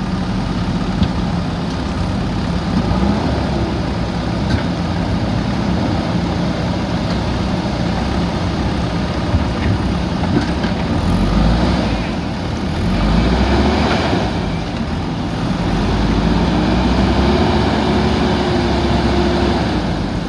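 JCB backhoe loader diesel engines running under load, the engine pitch rising and falling several times in the second half as the machines rev. A few short sharp knocks stand out over the engine noise.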